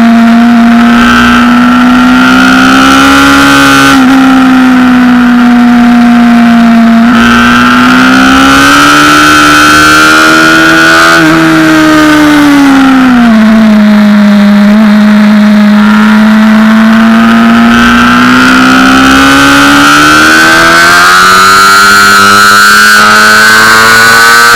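Honda CBR600RR's inline-four engine running hard at high revs, heard loud from a camera mounted on the bike. The engine note climbs and falls several times as the bike accelerates and shifts, ending in a long steady climb.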